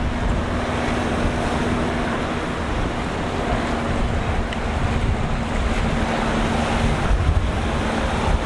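Rough surf and rushing water with wind buffeting the microphone, under the steady drone of a boat engine that holds one pitch until near the end.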